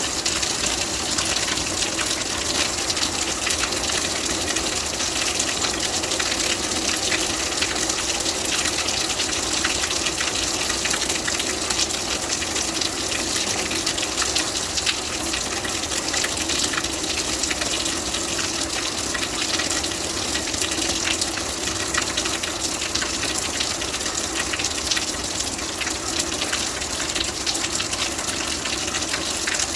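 Steady heavy rain, a dense even hiss with many small drop patters.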